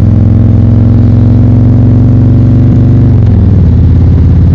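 Motorcycle engine running steadily under way, heard from on the bike; its note drops a little about three seconds in.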